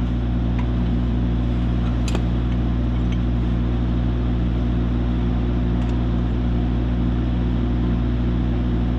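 An engine idling steadily, with a few light clicks, one sharper about two seconds in.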